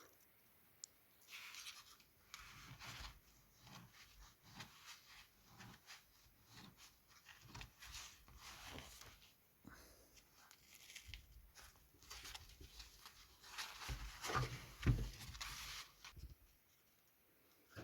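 Hand-work noises: irregular rubbing, scraping and light clicks of parts being handled, with a few heavier knocks about 14 seconds in.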